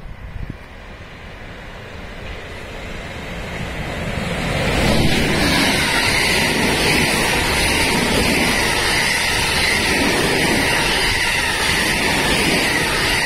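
JR West 223 series 2000-subseries electric multiple unit passing close by. A rush of wheel-on-rail noise builds over the first few seconds, then stays loud and steady as the cars go past.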